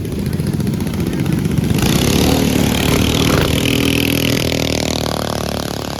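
Mini bike engine at full throttle racing past, loudest about two seconds in, then dropping in pitch and fading as it goes away.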